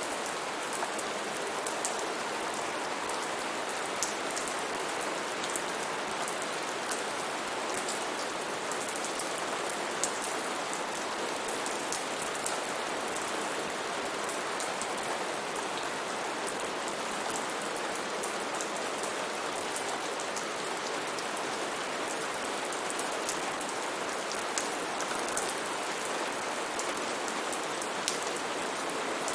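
Steady heavy rain with a constant hiss and many close, sharp drop hits spattering on leaves and surfaces.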